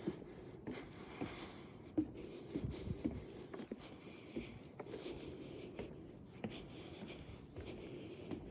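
Footsteps on a wooden boardwalk: short knocks and scuffs of shoes on the planks at a walking pace, with a few heavier low thumps about three seconds in.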